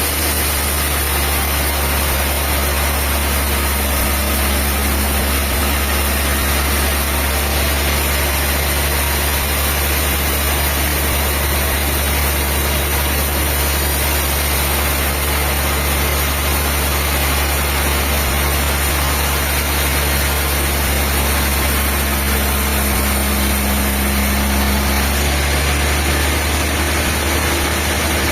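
Diesel engine running steadily at constant speed, a deep, even hum with no change in pace.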